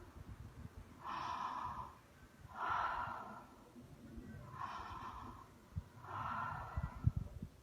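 A woman breathing slowly and deeply, belly breathing: four audible breaths of about a second each, spaced a second or so apart, with low bumps of wind on the microphone near the end.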